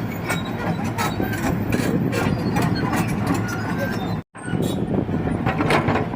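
Excavator's diesel engine running steadily, with scattered clanks and knocks. The sound cuts out abruptly for a split second a little past four seconds in.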